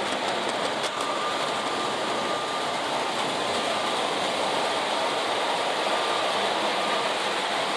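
MTH Rail King O-gauge speeder car running on its track: a steady whir of the small electric motor and wheels rolling on the rails, with a faint steady whine from about a second in.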